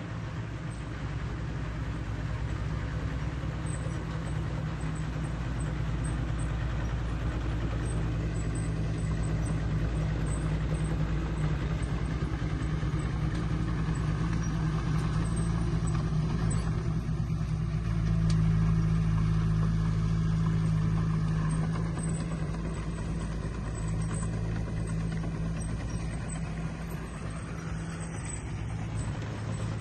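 Komatsu D20 bulldozer's diesel engine running steadily under work, growing louder for a few seconds past the middle.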